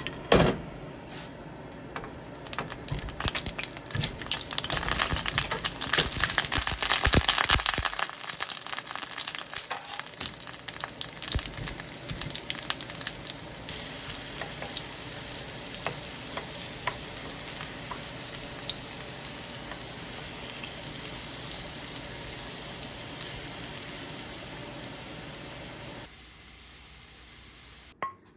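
Food frying in a pan with oil, sizzling and crackling with many small pops. It is loudest and busiest for the first several seconds, then settles to a steadier sizzle that fades a couple of seconds before the end.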